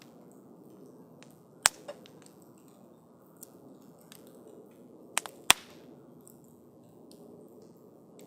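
Wood campfire burning: a soft steady rush of flame with scattered small crackles, and sharp pops from the burning wood, one loud pop under two seconds in and a quick group of pops a little past five seconds.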